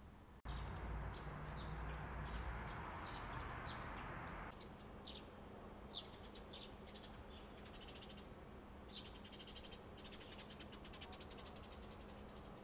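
Birds chirping in short repeated calls over a low steady city hum. For the first few seconds a louder steady rush of noise with a low rumble lies under the first calls, then cuts off.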